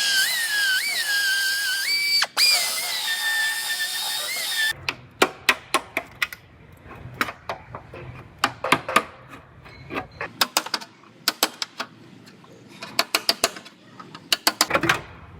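High-speed air tool in sheet-metal work: a high-pitched whine that sags and climbs as the tool is loaded and let off. After about five seconds this gives way to irregular clusters of sharp metallic clicks and taps.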